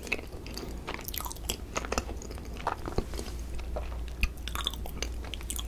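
Close-miked chewing of a soft cream-filled bun (Korean cream bread), a run of many small wet clicks and smacks from the mouth.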